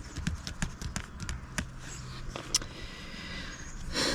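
Handling noise: a scatter of light clicks and taps from small objects being moved about, with a short rustle about four seconds in.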